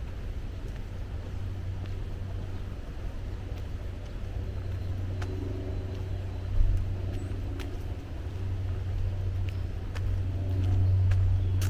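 Low steady rumble of distant road traffic, swelling a little near the end, with a few faint scattered clicks.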